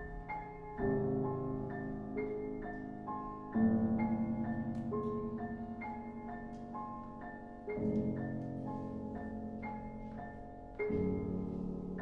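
Vibraphone and piano playing a repeating figure of struck, ringing high notes over low chords that come in four times. The low chords pulse as they ring out.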